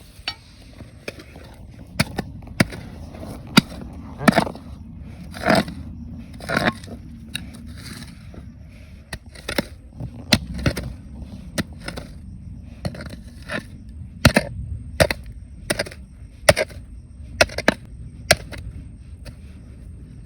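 Stones knocking and clacking irregularly, with a few short scrapes, as rocks and gravel are dug and moved by hand and tool, over a low steady rush of running water.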